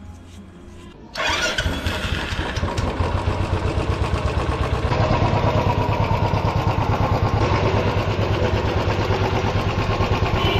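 Royal Enfield 350 single-cylinder engine starting about a second in, then running with an even beat of firing pulses, a little louder from about halfway. It starts with a newly fitted one-way starter clutch.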